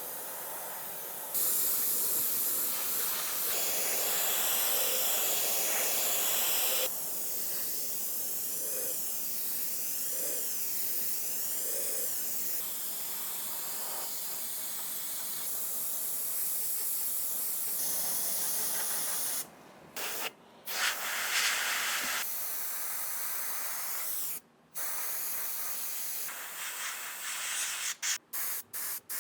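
Paint spraying onto a metal gun part, a steady hiss held in long passes. The hiss stops briefly a few times after the middle and breaks into short quick bursts near the end as the spray is triggered on and off.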